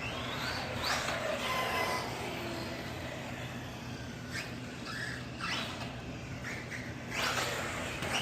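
Team Associated Rival MT8 RC monster truck running, its brushless motor whining up and down in pitch several times as it speeds up and slows, over tyre and drivetrain noise.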